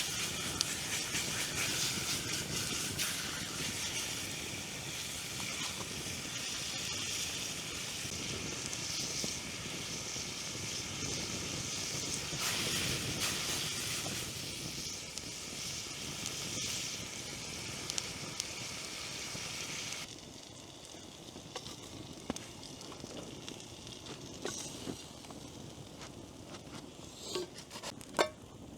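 Food sizzling and hissing in a pan over a campfire. About twenty seconds in the sound drops suddenly to a quieter background with scattered small ticks, and a few sharp clicks come near the end.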